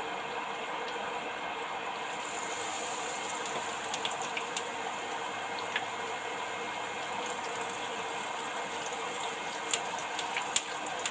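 Beetroot leaves deep-frying in hot oil: a steady sizzle with scattered sharp crackles, a few louder pops near the end. The sizzle brightens about two seconds in.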